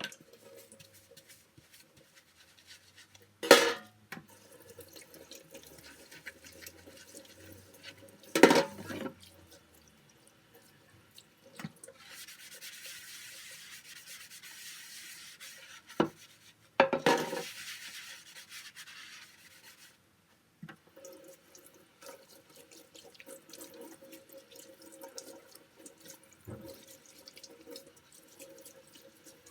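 Household cleaning at a sink: water runs in short spells, with a few sharp knocks and clatters of things being handled, loudest about 3.5 and 8.5 seconds in and again near the middle.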